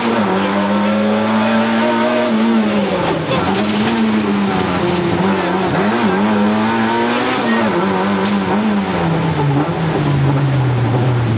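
Rally car engine heard from inside the cabin, running hard on a stage. Its pitch dips and recovers several times, then drops to a lower, steadier note near the end.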